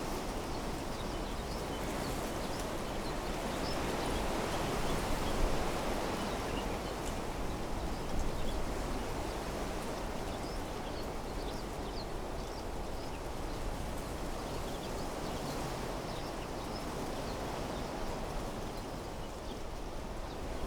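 Wind blowing through trees, a steady rustling rush that swells in a few gusts, with scattered faint high-pitched chirps over it.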